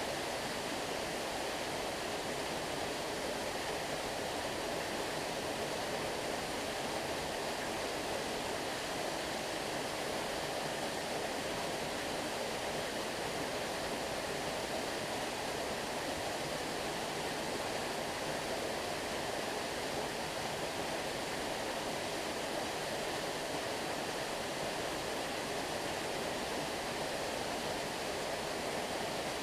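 A stream flowing steadily, a constant rushing of running water with no single splashes standing out.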